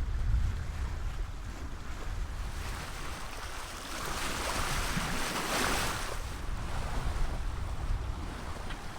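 Wind buffeting the microphone over the rush of sea water along a sailboat's hull under way, with a louder swell of wash about four to six seconds in.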